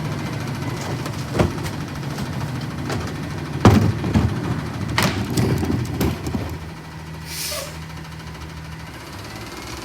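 Autocar ACX CNG rear-loader garbage truck running steadily, with several sharp knocks in the first six seconds and a short burst of air hiss about seven and a half seconds in.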